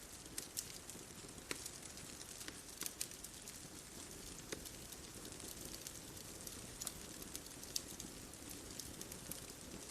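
Wood bonfire crackling: irregular sharp pops and snaps, several a second, over a steady soft hiss.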